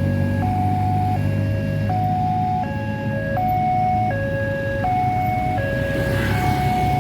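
Railway level crossing warning alarm sounding an electronic two-tone signal, its pitch switching back and forth at an even pace, each tone held for under a second. Under it is a low rumble that eases off after about two seconds.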